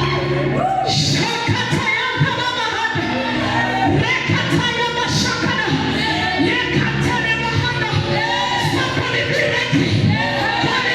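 Church worship music: a choir or congregation singing over a band with bass and a steady drum beat.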